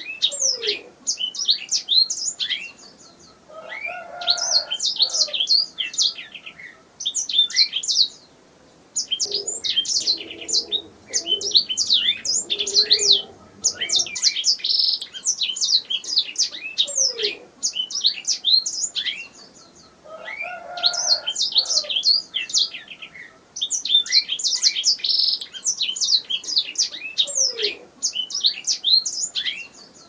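Domestic canary singing: long phrases of rapid high chirps and trills, broken by short pauses.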